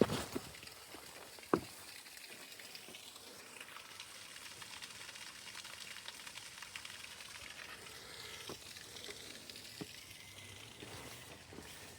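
Steady patter and hiss of falling rain, broken by a few sharp taps, the loudest one about a second and a half in.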